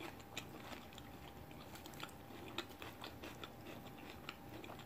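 Faint close-up chewing of a mouthful of salad, with soft irregular mouth clicks.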